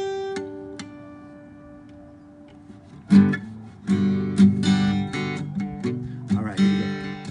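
Acoustic guitar: a couple of single notes plucked and left to ring out, then steady strummed chords from about three seconds in, the instrumental opening of the song.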